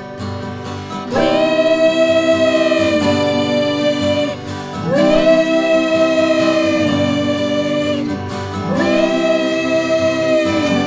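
Song music with three long held wordless sung notes, each swooping up into the note as it starts.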